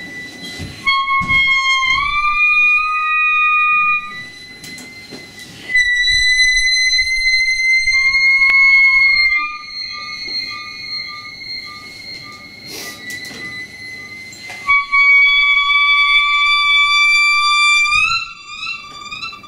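Wind instrument played through a computer: long held high notes that slide up into pitch, in three loud phrases broken by breathy noisy bursts, ending in a quick run of rising notes.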